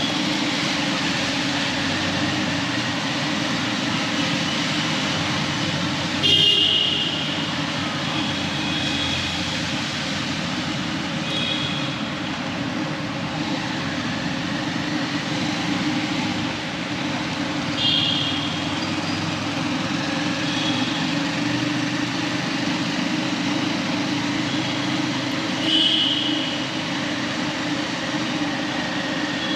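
Steady motorcycle engine and road noise while riding through town traffic, with vehicle horns honking several times, short beeps every few seconds, the loudest about six seconds in.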